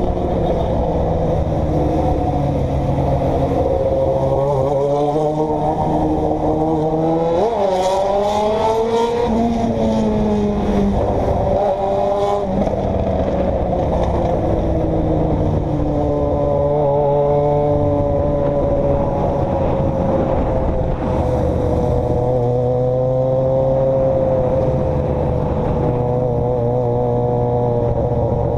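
Motor vehicle engine running under way over a dense rumble of road noise, its pitch rising and falling as it speeds up and slows, with a sharp climb and drop about eight seconds in.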